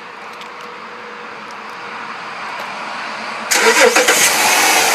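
2010 Dodge Charger SXT's 3.5-litre V6 starting up. It fires with a sudden loud burst about three and a half seconds in, the revs flaring and falling back, then settles toward a steady run.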